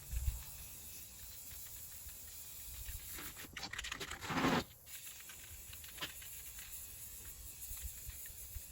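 Aerosol spray-paint can hissing in one burst of about a second and a half, midway through, spraying paint onto sheet-metal patches on a truck body, over a steady low rumble; a thump at the start and a click later on.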